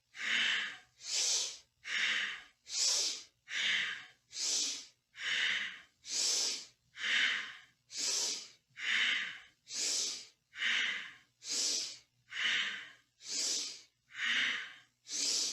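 Powerful, rhythmic yoga breathing, strong breaths a little more than one a second, each inhale and exhale paced by a seated spinal flex.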